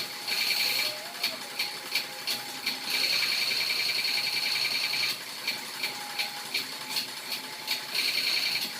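High-pressure washer jet spraying water in hissing spells of one to two seconds, with quick regular clicks in the gaps between them.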